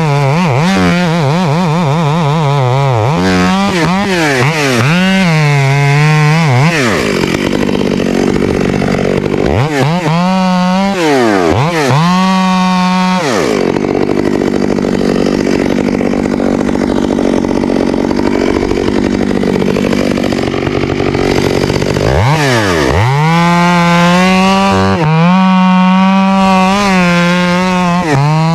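Ported Stihl MS 661 chainsaw, revved in quick throttle blips and then held at full throttle for long stretches as it cuts. Between cuts it drops briefly to idle and climbs back up.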